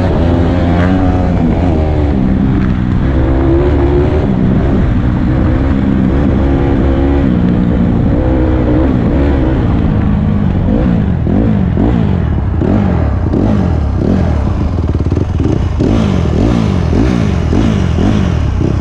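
Dirt bike engine running hard, its pitch rising and falling with the throttle. In the second half it revs up and drops back over and over, a little more than once a second.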